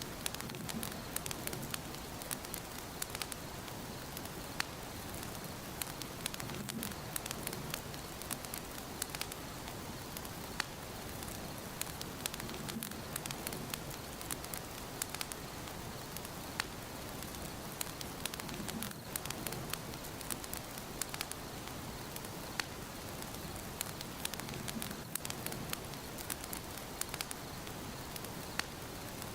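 Wood fire burning in a fireplace, crackling steadily with many sharp little pops and snaps over a soft hiss.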